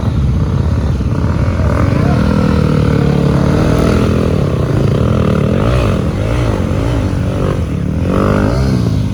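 Motorcycle engine running on the move, a loud continuous low rumble whose pitch wavers.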